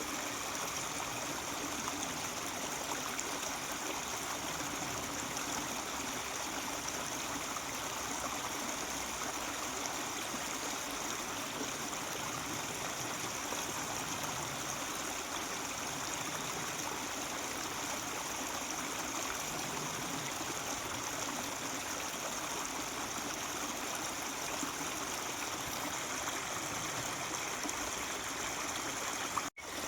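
Mountain stream flowing and babbling steadily over rocks. Near the end the sound cuts out for an instant and comes straight back.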